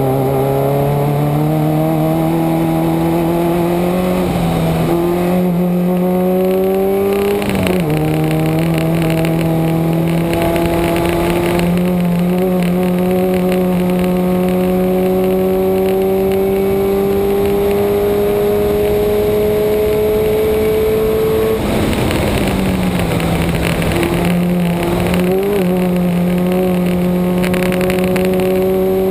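Subaru boxer engine under hard acceleration on a race track, its pitch climbing steadily through the gears with an upshift about a quarter of the way in and a long pull on the straight. About three quarters through, the driver lifts off and downshifts, then the engine pulls again, over steady road and wind noise.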